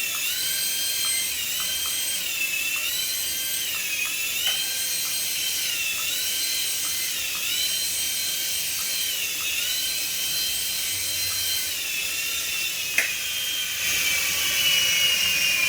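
A battery-powered toy's high-pitched electronic whine. It dips and rises in pitch in a repeating cycle a little more often than once a second, then turns into a slowly falling tone near the end and stops abruptly.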